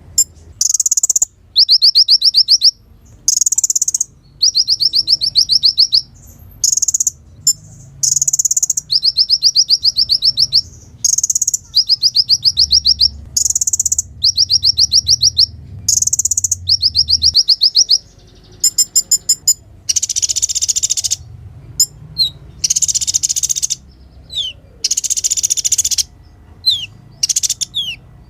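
Kolibri ninja sunbird singing loudly: a run of high, fast, rattling trills about a second long, each answered by a shorter higher note, then from about two-thirds of the way harsh buzzy bursts mixed with short falling whistles.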